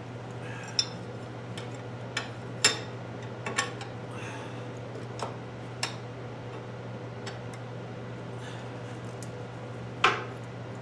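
Scattered light metal clinks and clicks as a small clamp and a piece of steel are handled and set in place, a few close together in the first four seconds and a louder one near the end, over a steady low hum.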